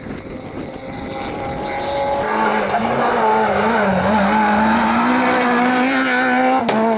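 Rally car engine held at high revs as the car comes in, growing louder, with a strong steady engine note setting in after about two seconds and tyre noise under it. A single sharp crack near the end.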